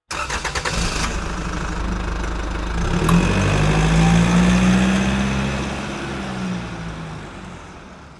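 An engine turning over with a quick run of clicks for about a second, then running, its sound swelling about three seconds in and easing off as it fades out.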